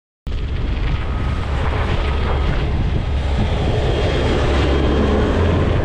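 Wind buffeting the microphone of a moving bicycle riding into a strong headwind: a steady low rumble under a hiss. It starts suddenly just after the beginning.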